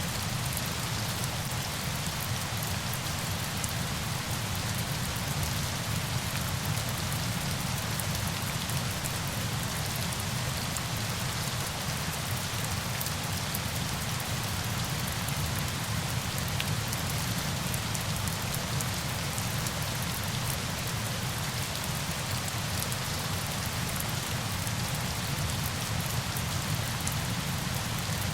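Steady rain falling on a surface, a continuous even hiss with fine scattered drop ticks, unchanging throughout.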